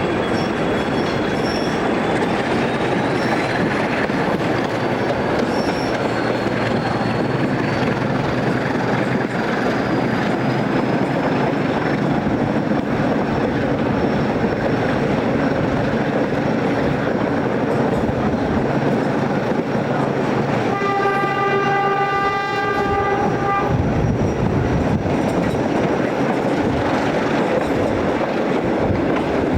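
Train running with a steady rumble and wheel noise on the rails. About two-thirds of the way through, a train horn sounds one steady note for about three seconds.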